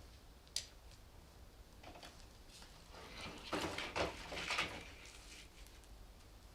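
A sharp click, then a couple of seconds of scraping and knocking, like something being opened or handled.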